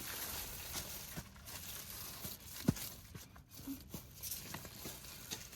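Irregular light clicks and rustling, with one sharper click a little under three seconds in.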